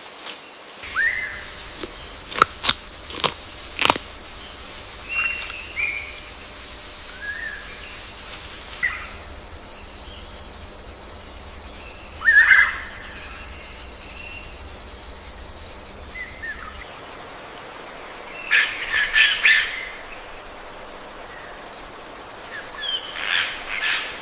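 Birds chirping and calling in short, scattered notes, with two denser bursts of rapid chirping in the last third. A steady high-pitched ringing runs behind them and cuts off suddenly about two-thirds of the way through, and a few sharp clicks sound near the start.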